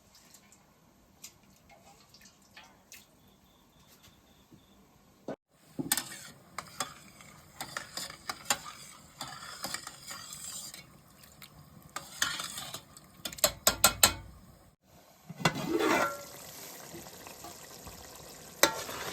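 Food frying in a hot pan while a metal spoon stirs and scrapes it, with sharp clicks of the spoon against the pan. A louder surge of sizzling comes about three-quarters of the way through. The first few seconds hold only a few faint clicks.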